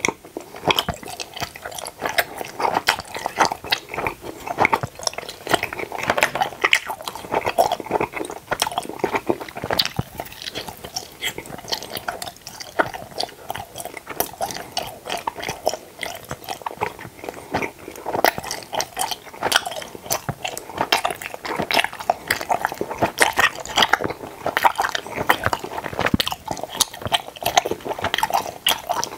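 Close-miked chewing and biting of tooth-shaped gummy jelly candies: a dense, continuous run of small clicks.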